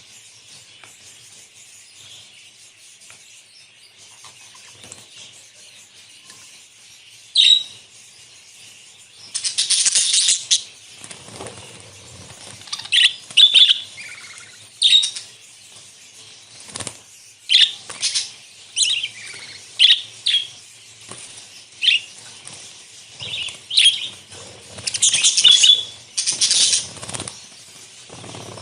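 A flock of budgerigars chattering steadily, with loud, sharp chirps and squawks breaking in every second or so from about a quarter of the way in.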